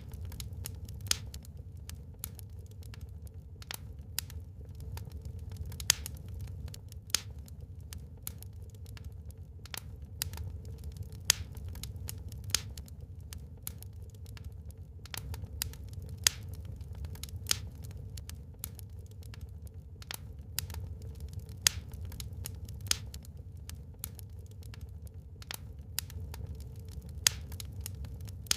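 Wood fire burning in a fireplace, crackling with frequent irregular sharp pops, a few of them louder, over a steady low rumble.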